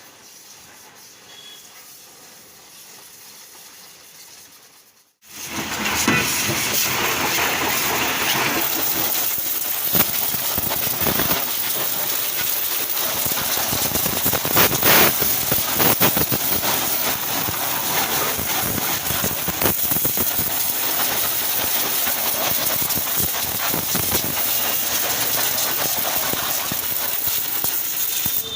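High-pressure washer jet spraying water onto a tractor: a loud, steady hiss that starts abruptly about five seconds in, after a quieter stretch.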